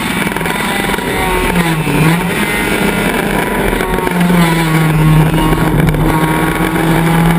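Honda Civic race car's engine at high revs, heard from inside the car over wind and road noise. The pitch dips and climbs back about two seconds in, then holds steady.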